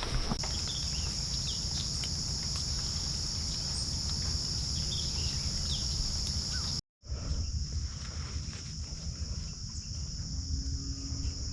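Steady, high-pitched insect chorus in swamp woods, with a low rumble underneath and a few faint bird chirps; the sound cuts out completely for an instant about seven seconds in.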